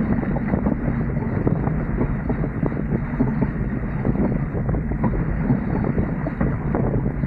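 Wind buffeting the microphone of a camera on a Dart 18 sailing catamaran under way: a steady, dense rumble with constant small gusts.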